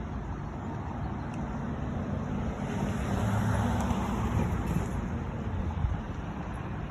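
A vehicle passes, its engine and road noise swelling in the middle and then easing, over steady background traffic noise and wind on the microphone.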